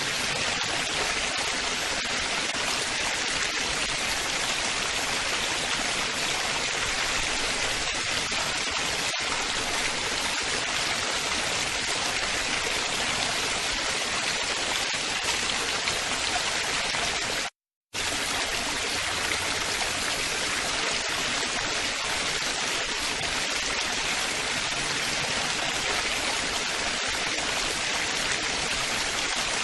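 Steady splashing of running water from a stream or small waterfall, a dense even rush with most of its sound in the upper range. It cuts out completely for a split second a little past halfway, then resumes unchanged.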